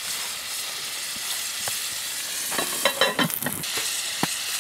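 Sliced peppers and onions sizzling steadily in olive oil in a cast iron skillet, with a few light knocks and a short clatter about three seconds in.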